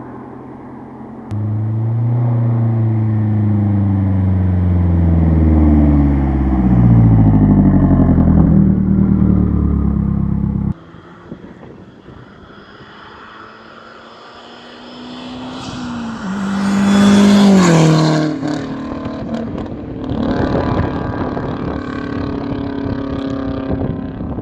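Straight-piped Mazdaspeed3's turbocharged 2.3-litre four-cylinder accelerating hard, its pitch climbing and dropping back at each gear change, then cutting off suddenly about eleven seconds in. Later the engine rises again to a peak and falls away into a lower, steadier exhaust drone with crackling.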